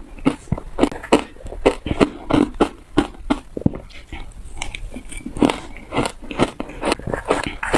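Ice being bitten and crunched close to the microphone: a quick run of sharp, crackly crunches, about two to three a second.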